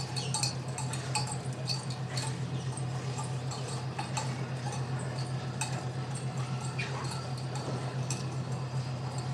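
Steady low hum of a fishing vessel's machinery, with irregular light clicks and knocks from work on deck scattered over it.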